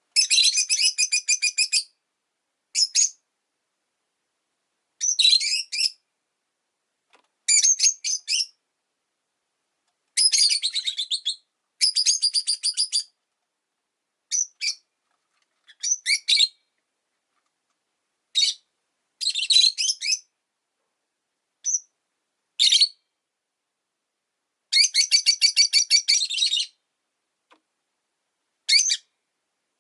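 Rosy-faced lovebirds chirping in a string of short bursts of rapid, shrill chattering, the longest bursts near the start, around ten to thirteen seconds in, and around twenty-five seconds in, with silent gaps between them.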